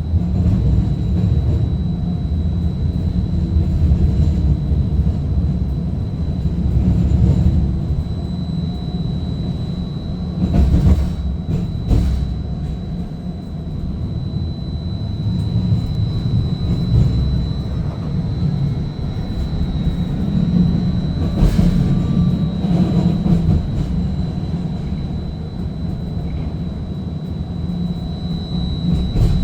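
Seattle First Hill Streetcar running between stops, heard from inside the car: a steady low rumble with a thin, high, steady whine over it. A few sharp knocks come around ten to twelve seconds in and again at about twenty-one seconds.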